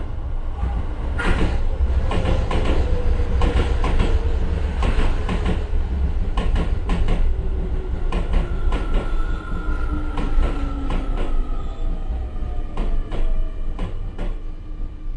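Keio 7000 series electric train heard from inside the lead car, running and slowing down: a heavy low rumble, wheels clicking over rail joints and points, and motor whine falling slowly in pitch as it loses speed.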